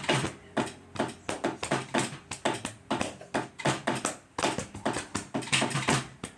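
Rhythmic sharp taps or clicks, about three a second, keeping an even pace.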